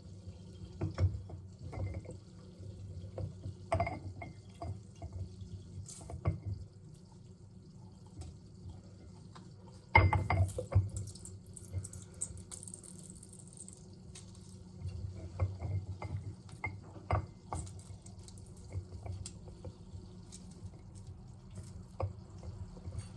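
Oranges being squeezed by hand on a lemon squeezer, with juice dripping and trickling into a glass. Scattered clicks and knocks of the squeezer and glass come throughout, with a louder knock about ten seconds in, over a low steady hum.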